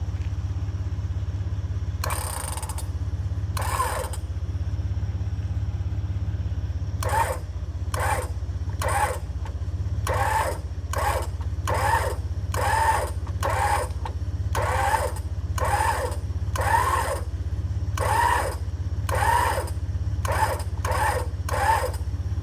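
Jeep engine idling steadily under a rebuilt Warn M8274 winch, which is run in short bursts: twice early, then about once a second through the second half, working the line tight against a log.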